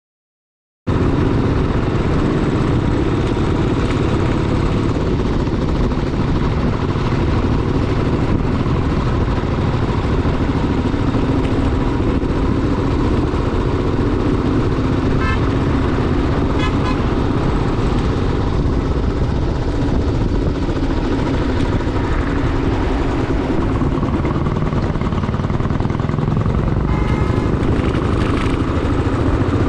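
Motorcycle on the move: engine running and wind rushing over the microphone, cutting in suddenly just under a second in, with a brief horn toot near the end.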